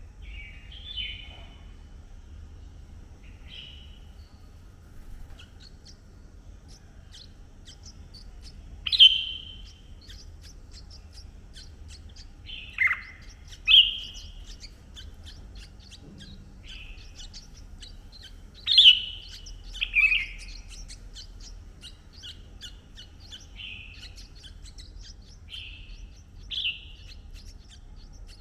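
Red-whiskered bulbul calls: about a dozen short, separate chirps, many sliding downward in pitch, spaced irregularly, with the loudest a third of the way in and again just past the middle.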